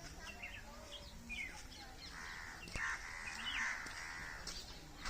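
Faint bird calls: short chirps throughout, and a longer harsh call in the middle.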